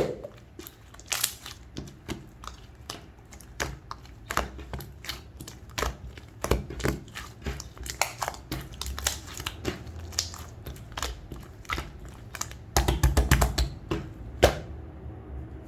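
Pink clear slime being worked by hand, giving sticky clicks and small pops scattered throughout, with a quick run of pops near the end.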